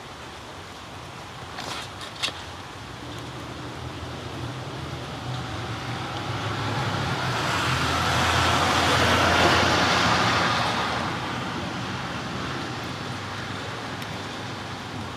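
A vehicle passes on a wet road, its tyre hiss and low engine hum swelling to a peak about nine seconds in and then fading. There are two short clicks about two seconds in.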